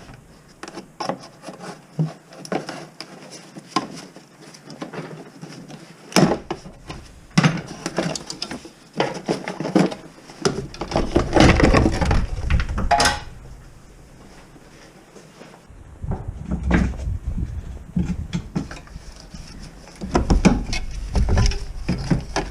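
Scattered knocks, clicks and rubbing from hands and tools handling metal parts, with two stretches of low rumble.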